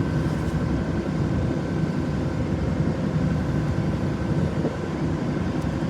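Steady low rumble of a lake cruise boat's engine, with a faint steady whine above it.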